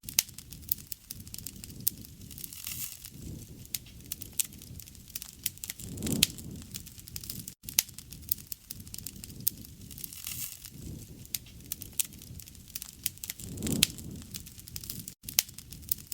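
Campfire of burning wood crackling, with frequent sharp snaps and pops over a low rush of flame that swells every few seconds. The sound cuts out for an instant twice.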